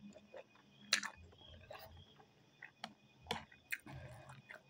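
A person quietly chewing a mouthful of ramen noodles, with a few scattered sharp clicks and mouth smacks, the loudest about a second in and several more near the end.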